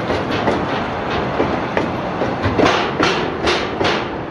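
Narrow-gauge freight train's container wagons rolling past, their wheels clacking over the rail joints in a continuous clickety-clack. A run of sharper, louder clacks comes in the second half.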